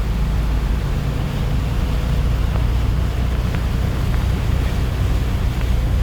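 Heavy rain falling as a steady hiss, over a loud, steady deep rumble.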